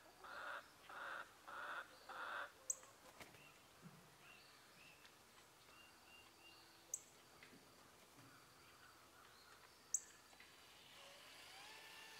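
Faint outdoor birdsong. A bird gives about five harsh calls in quick succession over the first two and a half seconds, followed by soft short chirps and a few sharp, high chips spaced a few seconds apart.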